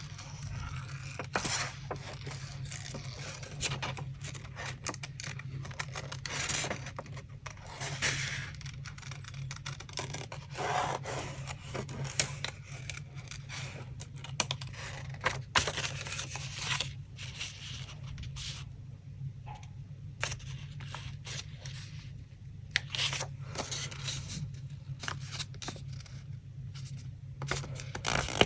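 Paper and collage materials handled by hand: irregular rustling and scraping with short pauses, over a steady low hum.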